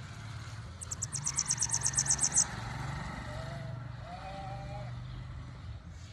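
A bananaquit (sibite) sings a rapid run of about fourteen high, thin notes that grow louder over a second and a half. Under it runs the low steady hum of a vehicle engine.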